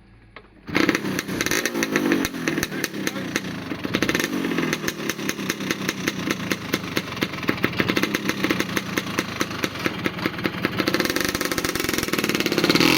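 A small motorbike engine, its carburettor just reworked, bursts into life about a second in and runs with a rapid, even firing beat. The throttle is opened and the revs rise near the end.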